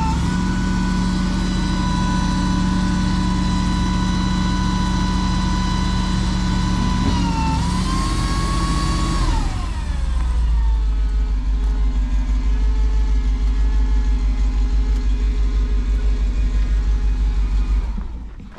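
Rollback tow truck engine running with a steady high whine, revving up briefly about 8 seconds in, then falling to a deeper, pulsing idle. It shuts off suddenly near the end.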